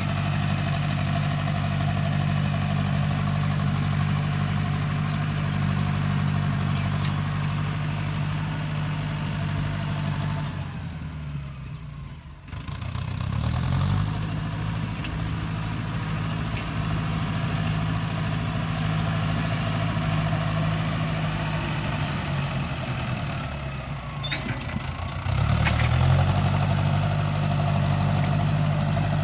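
Tractor engine running steadily under load. The revs drop about eleven seconds in and climb back about two seconds later, and they shift again about twenty-five seconds in.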